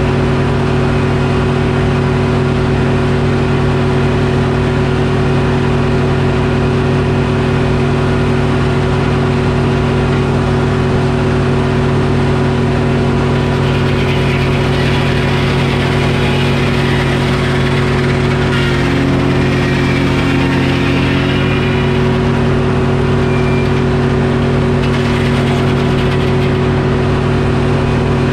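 Detroit Diesel engine running steadily, driving a Frick sawmill. About halfway through, a rougher, higher noise of the saw cutting through the oak log joins in for around ten seconds, and the engine note sags briefly under the load.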